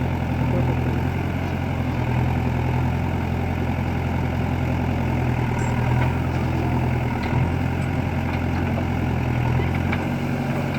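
Heavy diesel engine of a working machine running steadily at an even speed, with no revving.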